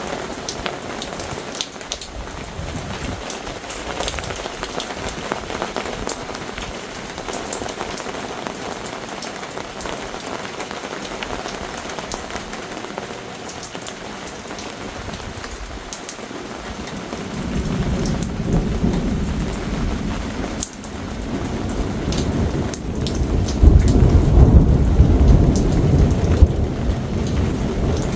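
Heavy rain falling steadily in a thunderstorm, with a long low roll of thunder building a little over halfway through and loudest near the end.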